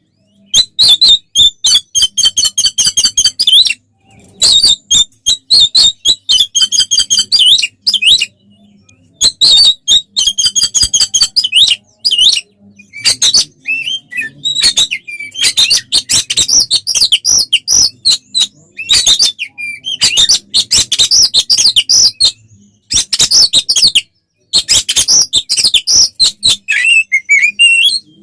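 Oriental magpie-robin (kacer) singing loudly in the aggressive, combative style: bursts of fast, harsh repeated notes mixed with quick gliding whistles, broken by short pauses.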